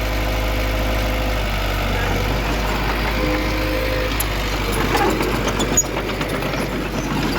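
Heavy diesel earthmoving machine running steadily. About five seconds in, metallic clicking and clanking joins it and keeps going.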